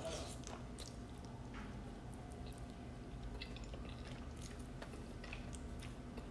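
Soft chewing of a mouthful of pasta, with faint wet mouth clicks now and then, over a faint steady hum.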